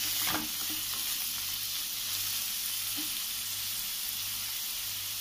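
Diced carrot, beans and capsicum sizzling in ghee in a metal pan, a steady frying hiss, with a spatula stirring them near the start.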